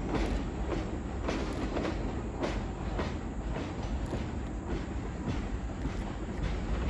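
Freight train's cars and caboose rolling along the track: a steady low rumble with irregular clacks of the wheels passing over rail joints, a few each second.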